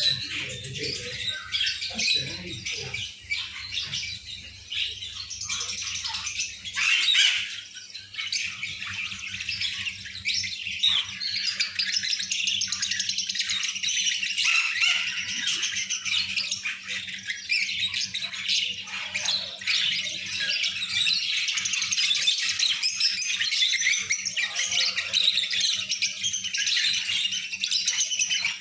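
A flock of lovebirds chattering and squawking in dense, high-pitched calls that grow more continuous about ten seconds in.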